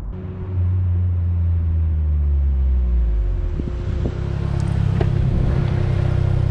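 Autozam AZ-1's turbocharged 657 cc three-cylinder engine running through a straight downpipe with no catalytic converter, a steady low drone. The note steps up in pitch about four seconds in.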